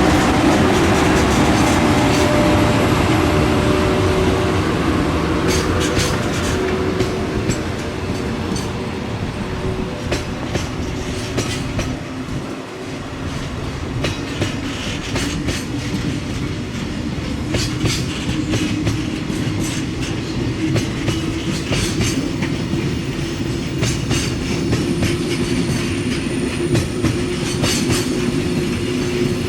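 A train running past on JR Kyushu track, its wheels clacking repeatedly over rail joints, with a steady hum under the rumble.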